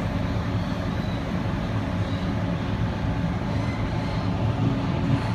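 Sydney suburban electric train heard from inside the carriage while running, a steady low rumble and hum of wheels on the track and traction equipment.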